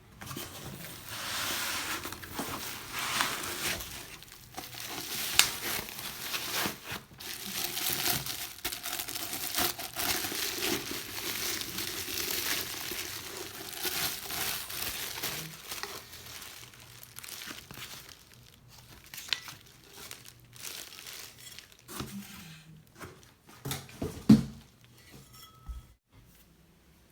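Packing material crinkling and tearing as new exhaust tips are unwrapped from their box, with many sharp rustles; it goes quieter in the last third, with a few knocks near the end.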